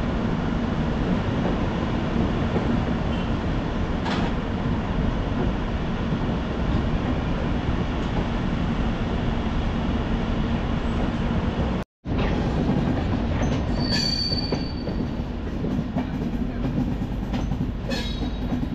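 Passenger train coaches rolling over the track, heard from the coach's side: a steady rumble of wheels on rails. The sound cuts out for a moment about two-thirds through, then a brief high wheel squeal and a few clicks over track joints follow as the train runs into the station.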